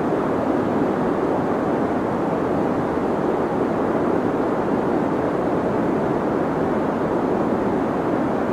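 Deep white noise: a steady, even, muffled noise, strongest in the low-middle range and thinning out in the highs, with no change in level.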